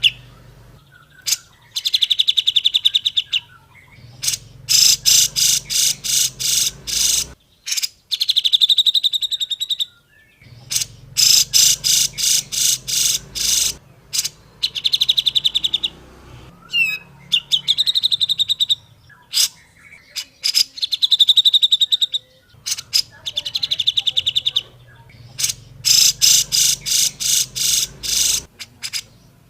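Grey-cheeked bulbul (cucak jenggot) calling in repeated bursts of rapid, evenly spaced chattering notes. Each burst lasts a second or two, with short pauses between them.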